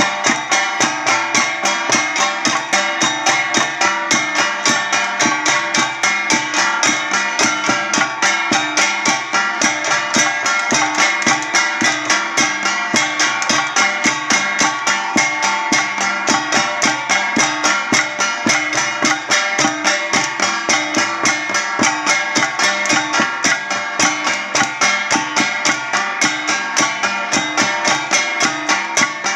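Traditional Ifugao gong and drum music: a fast, even beat of struck gongs, about five strokes a second, with their ringing tones held under the beat.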